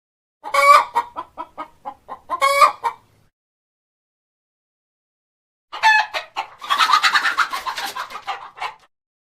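Chicken calling in two bouts a few seconds apart. Each bout has a loud drawn-out note and a run of short clucks.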